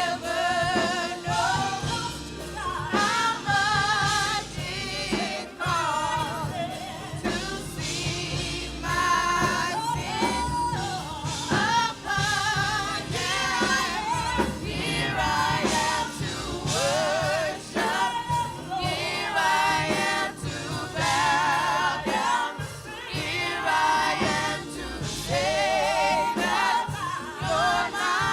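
Gospel worship music: voices singing with vibrato over a full band accompaniment.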